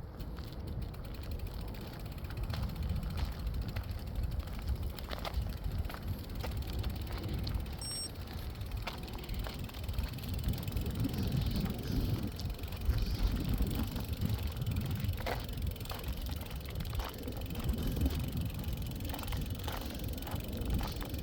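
Wind rumbling on a phone's microphone outdoors, swelling and easing, with scattered light clicks and ticks through the second half.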